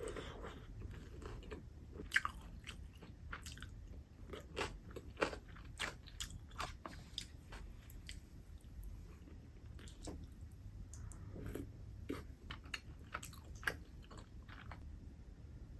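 Close-up chewing and biting of crispy fried squid tempura, with many irregular sharp crunches of the batter.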